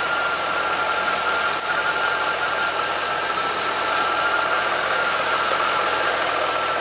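2002 Chevrolet Corvette C5's 5.7-litre LS1 V8 idling steadily, with no revving.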